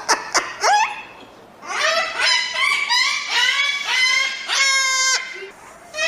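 Cockatoos calling: a few sharp rising squawks, then after a short pause a fast run of repeated squawks, about three a second, with one longer drawn-out call near the end.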